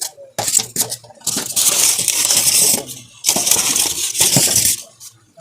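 Packaging of a new air compressor being handled and opened: rustling and scraping in several bursts about a second long each, with sharp clicks between them.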